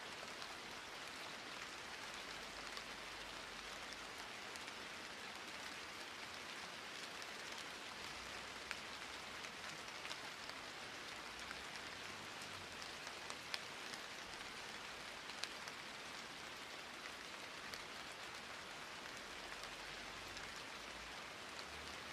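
Steady rain, an even hiss of falling drops, with a few sharper single drop ticks standing out now and then.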